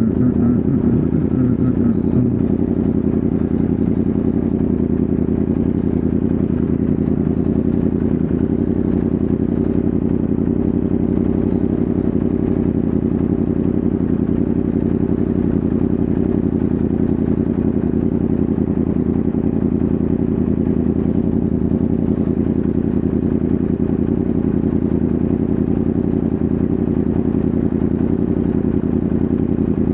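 Yamaha R1M's crossplane inline-four engine running at a steady cruise, a constant drone that holds the same engine speed throughout.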